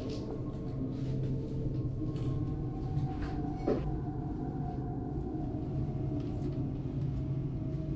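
A low, dark ambient drone of held tones, with a few faint clicks and one short knock a little after halfway through.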